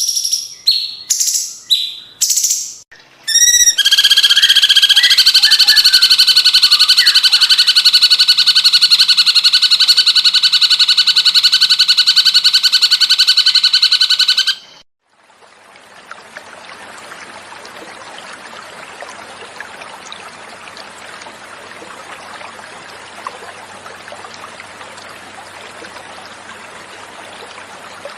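Cucak cungkok bird song: a few short, clipped whistled notes, then a loud, rapid, even trill held for about eleven seconds that cuts off abruptly halfway through. After the cut, a steady, quieter sound of flowing water carries on.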